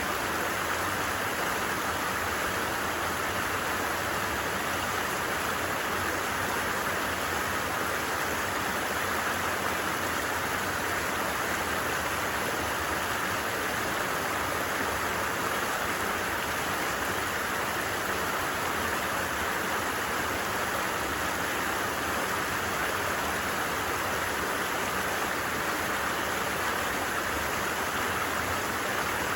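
A stream flowing steadily: a constant, even rush of water with no change throughout.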